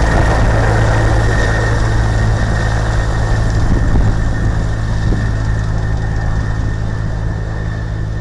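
Helicopter engine running steadily, with a low throb and a constant high whine, easing off slightly in the second half.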